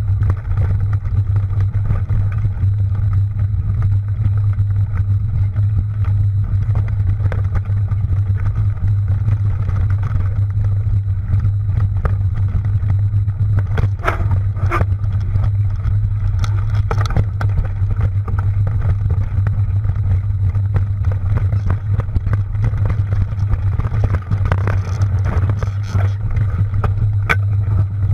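Steady low rumble of riding a mountain bike over a trail, picked up by a camera on the bike or rider, with scattered clicks and rattles.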